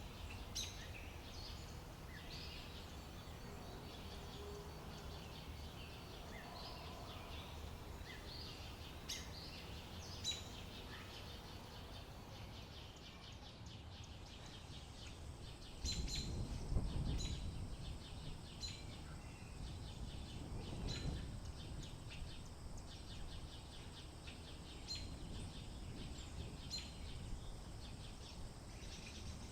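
Small birds chirping, many short, high chirps scattered throughout over a low background hiss, with a low rumble for several seconds about halfway through.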